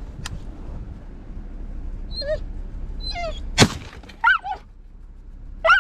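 Springer spaniel whining in a few short, high, wavering whimpers, with a sharp click partway through over a low rumble of wind.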